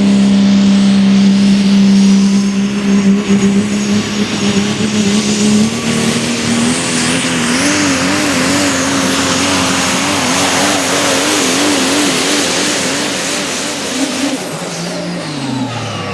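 Super stock diesel 4x4 pulling truck at full throttle down the pull track, the engine note climbing under a high turbo whine. About halfway through, the engine pitch starts wobbling up and down rapidly as the truck fights the sled. Near the end the revs fall away sharply as the pull ends.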